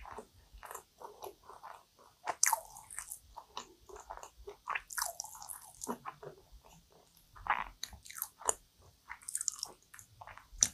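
Close-miked chewing of a cream-filled kouign-amann pastry (amann chou): irregular mouth clicks and smacks, with louder crisp crunches of the caramelized crust about two and a half, five and nine and a half seconds in and again near the end.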